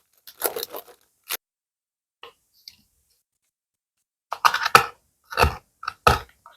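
Close-miked ASMR handling sounds: short crisp crinkles and rustles in separate bursts. There is a cluster in the first second, two faint ticks in the middle, and several quick sharp ones in the last two seconds.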